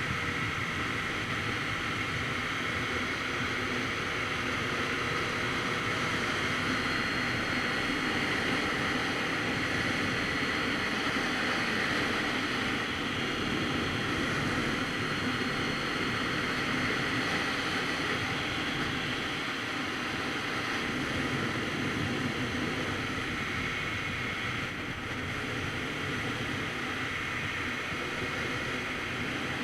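Steady wind rush over the microphone of a moving Kawasaki Z900RS Cafe, with the motorcycle's inline-four engine running at an even cruise underneath.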